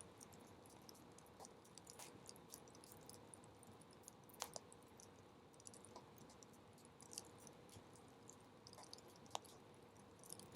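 Faint crackling of a low-burning wood campfire: a scatter of small irregular ticks and snaps, with two sharper pops about four and a half seconds and nine seconds in.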